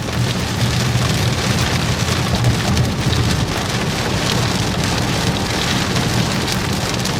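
Steady rain beating on a moving vehicle, with the vehicle's low running hum underneath.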